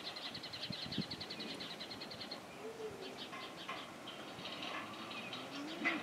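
Small songbird singing a rapid trill of high chirps for the first couple of seconds, then scattered chirps, over faint low shuffling from the moving herd.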